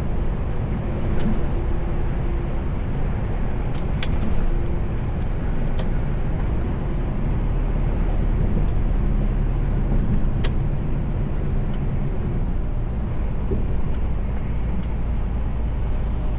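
Mercedes-Benz Actros L truck under way, heard from inside the cab: a steady diesel engine drone with road noise. There are a few sharp clicks about four to six seconds in and another about ten seconds in.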